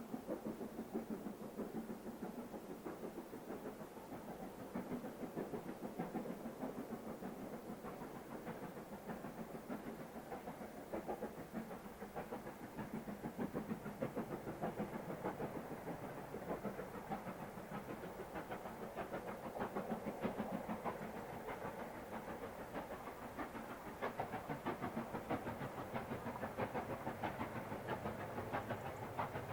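Steam locomotive on the move: a continuous run of rapid, evenly pulsing beats with wheels clattering over the rail joints.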